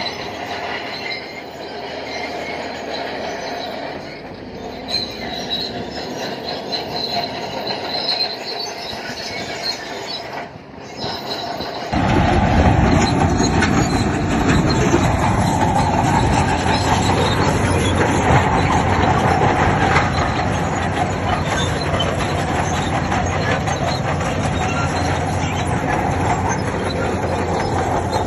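Bulldozer running with its steel tracks squealing and grinding. About twelve seconds in, the sound cuts abruptly to a louder, heavier engine and track noise.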